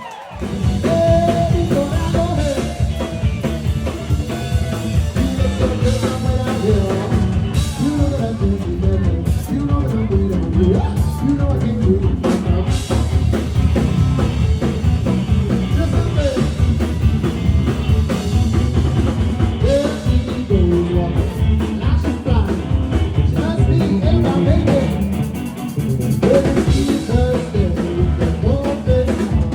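A band playing rock music, with a drum kit keeping the beat and a voice singing over it.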